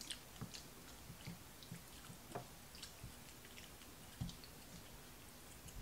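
Quiet chewing and wet mouth sounds of people eating sausage, with scattered small clicks and a few soft knocks.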